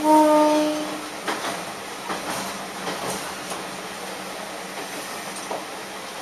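Railcar horn sounding one steady note that stops about a second in, followed by the railcar running along the track with its wheels clicking over the rail joints, heard from inside the front of the car.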